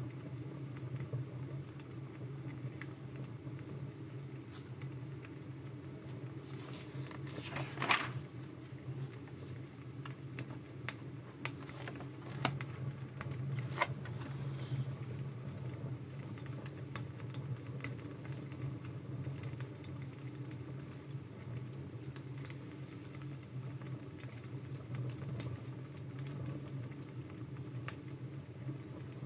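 Crackling wood fire: a steady low rumble of burning logs with irregular sharp pops and snaps, one louder crackle about eight seconds in.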